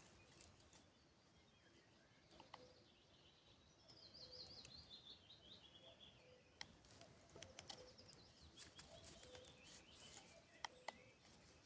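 Quiet woodland ambience with faint small clicks. About four seconds in, a songbird sings one quick, descending trilled phrase.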